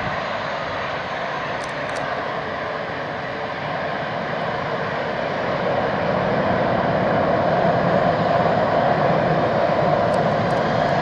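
Jet engine noise from an Airbus A380, its four engines giving a steady roar that grows louder about halfway through.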